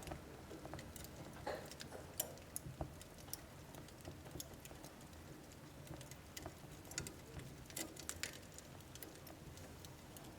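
Wood fire burning in a wood stove: irregular crackles and snaps of burning logs over a low, soft rumble of the flames.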